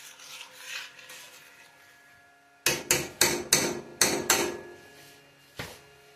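Cookware knocking: about six quick, sharp taps against the cooking pan a little before halfway, then a single knock near the end, after faint scraping at the start.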